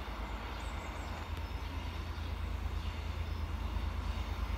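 Low rumble of an approaching diesel-hauled train, slowly growing louder.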